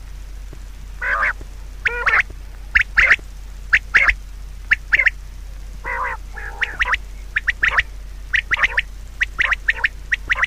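Short, repeated bird calls, often two or three in quick succession, over a steady low hum.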